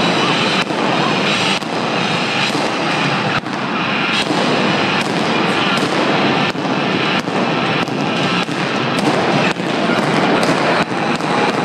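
Fireworks going off: a continuous crackling hiss broken by sharp bangs about once a second.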